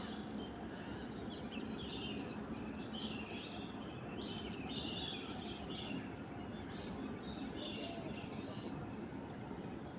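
Lesser whistling teals (lesser whistling ducks) giving short, high whistled chirps, many of them in a loose run over a steady faint background hiss.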